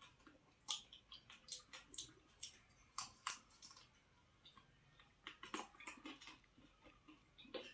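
A person chewing and biting into cooked chicken, mouth sounds as an irregular run of short clicks and smacks, with a few sharper ones about a second and three seconds in and a cluster near six seconds.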